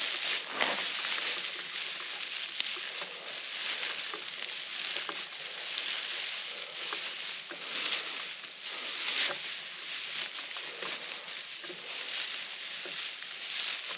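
Dry ponderosa pine needles being crushed and rubbed between the hands into a bird's nest, a continuous crackling rustle with many small snaps.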